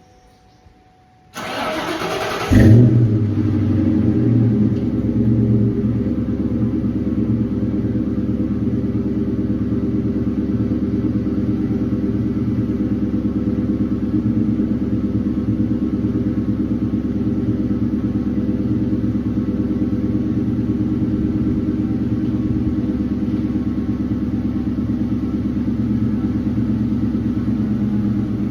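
Cold start of a 4.6-litre V8 with Flowmaster mufflers: the starter cranks for about a second, the engine catches with a loud flare, then settles into a steady idle through the exhaust.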